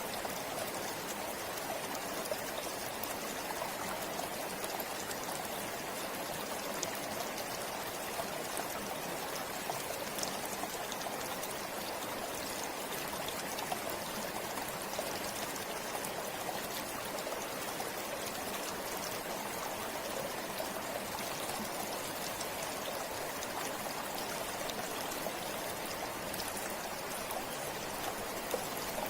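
River water flowing steadily, an even rushing with small splashes and trickles.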